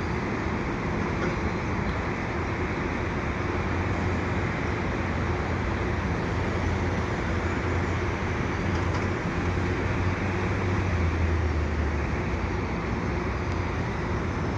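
Diesel-hauled EXO commuter train running on the viaduct, mixed with city street traffic: a steady rumble with a low engine hum that grows a little louder about ten seconds in.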